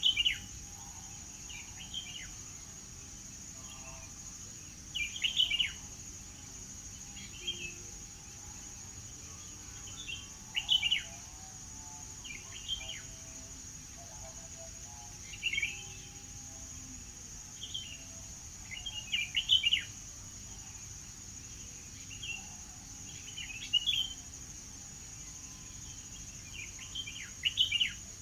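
Birds singing short chirping phrases every two to three seconds over a steady high insect drone.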